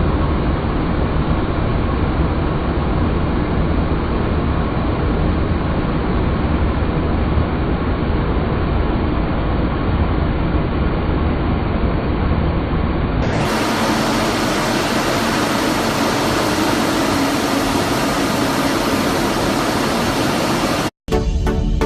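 Jet noise from MiG-29 fighters' twin turbofan engines, a steady loud rush. The sound changes abruptly about 13 seconds in to a brighter rush with less bass, and a brief dropout near the end leads into rhythmic music.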